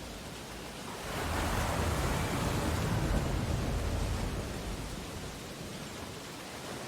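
Ocean waves on a beach: a steady wash of surf, with one wave surging up about a second in and washing back down over the next few seconds.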